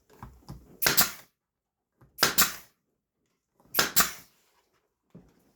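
Sharp knocks of wooden parts being fitted to a wooden garden gnome: a few light clicks, then three loud double strikes about a second and a half apart.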